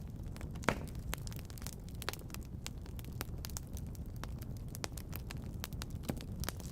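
Wood fire in a fireplace crackling, with many small sharp snaps and a louder pop about a second in, over a low steady rumble.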